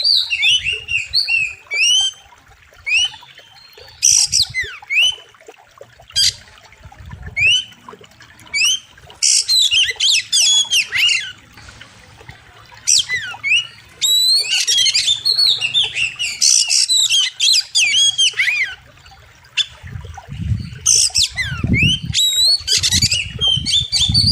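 Oriental magpie-robin (kacer) singing loudly in repeated bouts of fast, sharp whistles and harsh notes, with short pauses between phrases. A low rumble sits underneath, strongest near the end.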